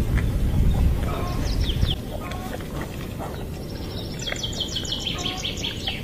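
Songbirds chirping and singing, with a fast high trill of rapid repeated notes in the second half. Wind rumbles on the microphone for the first two seconds, then drops away.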